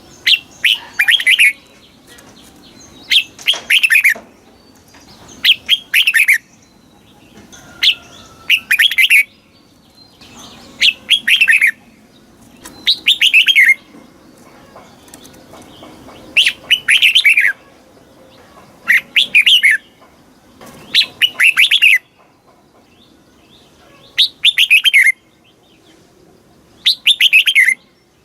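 Red-whiskered bulbul singing: short, bright phrases of quick descending notes, repeated about every two to three seconds.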